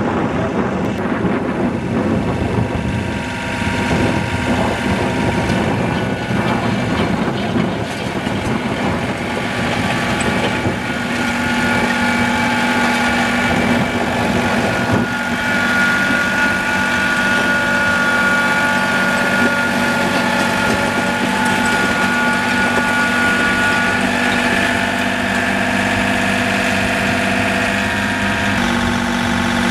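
Tractor engine running steadily, its pitch settling and holding even after about a third of the way in and shifting slightly near the end.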